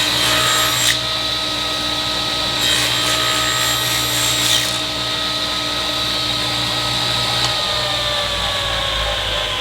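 Woodworking spindle shaper running with a steady motor whine, its cutter taking a very light chamfer off a board in two short passes of louder cutting noise. Near the end the motor is switched off and its whine falls in pitch as it spins down.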